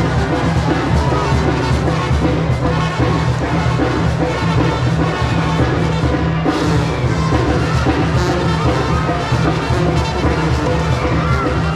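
Band music with brass instruments and drums.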